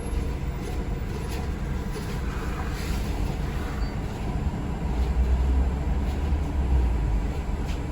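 Cabin noise of a moving city transit vehicle: a steady low rumble of driving that swells for a couple of seconds past the middle, with a few faint rattles.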